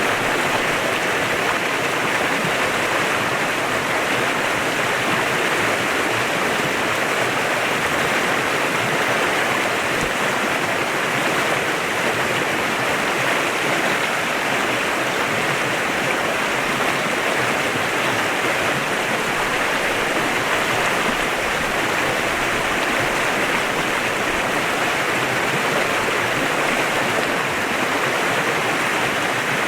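Clear mountain stream flowing over rocks, a steady rushing and babbling of water.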